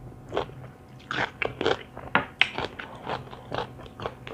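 A person chewing and crunching crisp raw vegetables close to the microphone, with a string of uneven crunches, several a second.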